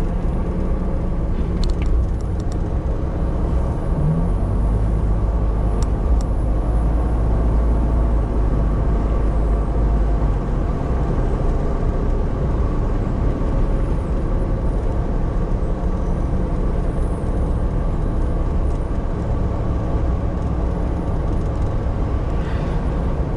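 Steady vehicle driving noise, a low engine and road rumble, with a few faint clicks in the first several seconds.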